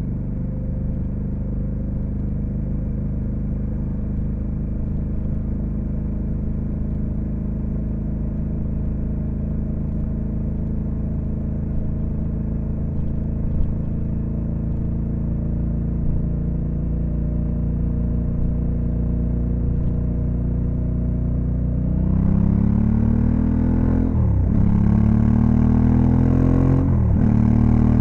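Honda Africa Twin CRF1100L's 1084 cc parallel-twin engine running at a steady cruise. About 22 seconds in it grows louder as the bike accelerates, the engine note rising and dropping twice on quick upshifts.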